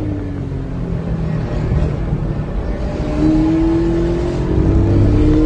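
Porsche GT4's flat-six engine at speed on track, easing off briefly and then pulling hard under full throttle from a little past halfway, its pitch climbing steadily as it revs up through the gear.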